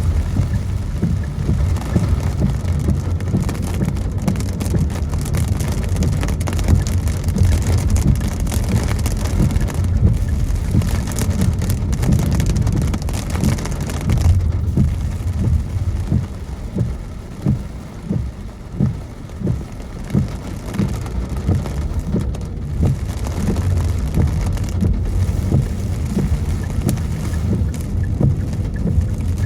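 Rain falling on a moving car, droplets ticking on the windows, over the steady low rumble of road and engine noise inside the cabin. Midway there is a run of regular low thumps about a second apart.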